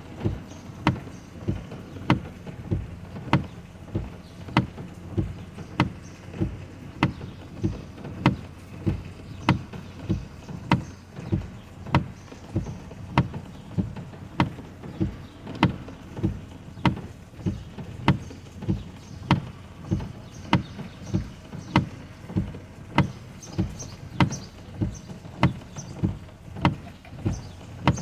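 Car windshield wipers sweeping in rain, thumping in an even rhythm of a little under two strokes a second over a low rumble.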